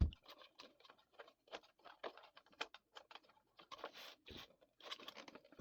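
Irregular small clicks, taps and scrapes of hands working a screw-in fuse in the compressor's fuse holder, with a sharp knock right at the start. No motor runs: the compressor has not come on.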